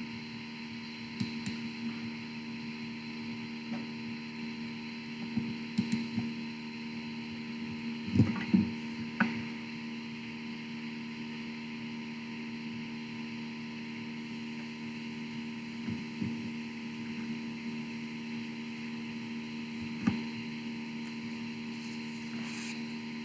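Steady electrical hum from the church's sound system, a sign of its sound problems, with scattered wooden knocks and bumps, the loudest cluster about eight seconds in.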